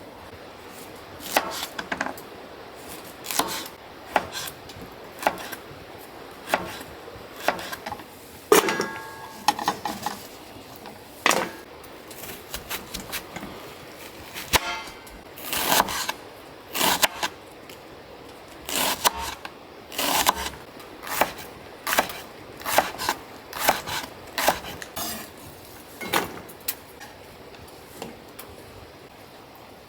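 Tableware and cooking gear being handled: irregular clicks, knocks and clinks of dishes and utensils being set down and moved, with a brief ringing tone about nine seconds in.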